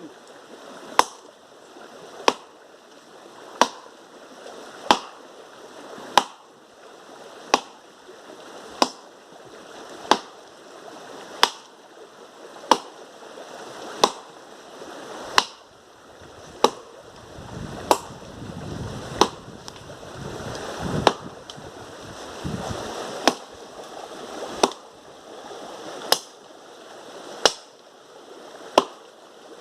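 Wood being chopped with steady, evenly spaced blows, about one sharp strike every second and a half, over a faint hiss.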